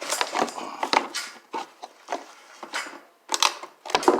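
Irregular scraping, clicking and knocking as the garage door opener's motor unit is pushed along its rail, sticking as it goes.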